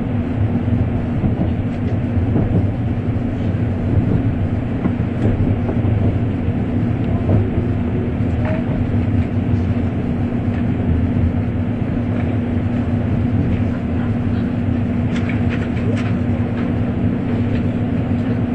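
Interior running noise of an N700-series Shinkansen: a steady low rumble with a constant hum, and a few faint ticks about fifteen seconds in.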